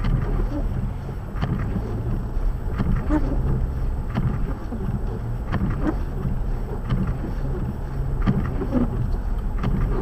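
Blizzard wind rumbling on the microphone, with a short regular tick about every second and a half.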